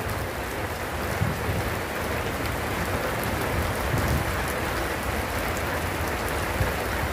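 Steady rain falling on the pond's water surface, with a few faint knocks.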